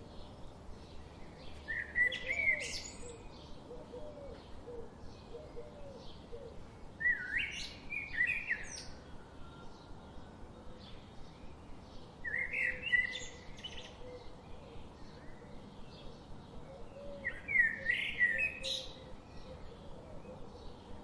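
A songbird sings the same short warbled phrase four times, about every five seconds, over a faint steady background of quick light ticks.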